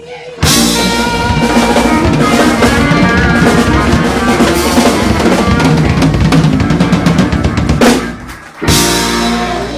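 Live blues-soul band with a full drum kit playing the closing bars of a song. It breaks off briefly near the end and lands on one final loud hit that rings out.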